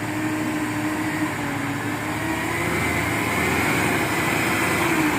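Diesel truck engine labouring under load in soft mud, its note holding steady and then rising slightly and growing a little louder in the second half.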